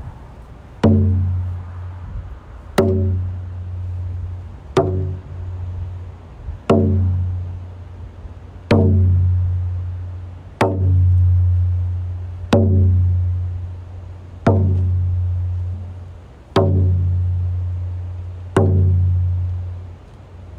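A hand drum beaten slowly and steadily, about one deep booming stroke every two seconds, each ringing on and fading before the next; ten strokes in all, starting about a second in.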